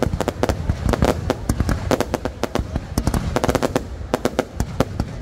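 Fireworks display: rapid, irregular bangs and crackles of aerial shells bursting, many a second, over a low rumble.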